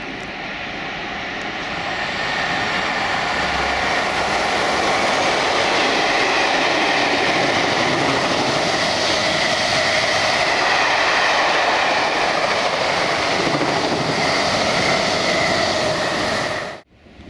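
A locomotive-hauled passenger train running fast through a station, its wheels rolling over the rails. The noise builds over the first couple of seconds as it approaches, stays loud as the coaches pass, and cuts off abruptly near the end.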